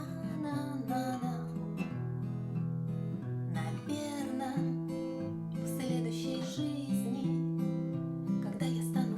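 Acoustic guitar strummed through a minor-key chord progression, the chords changing every second or two.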